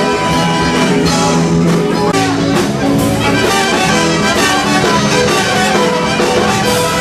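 Live band playing an instrumental passage with a steady beat and no vocals.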